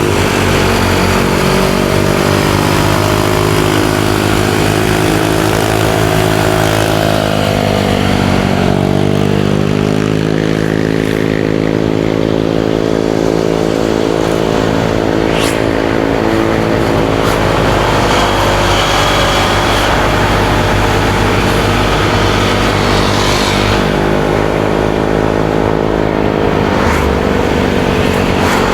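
Motorcycle engine running under way, heard from the rider's seat with wind and road noise. About eight seconds in the revs drop, then climb steadily again.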